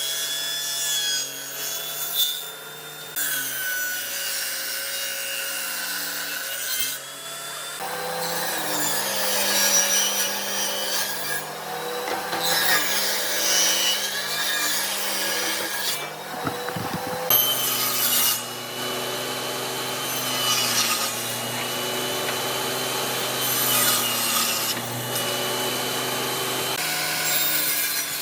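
Power tools working wood: a motor whine that rises and falls under load over the rasp of the cut. It changes abruptly every few seconds, as separate cutting or sanding passes.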